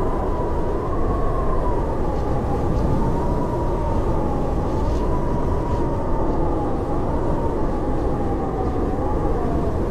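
Howling blizzard wind: a steady, deep rumble with a wavering whistle that slowly sinks in pitch.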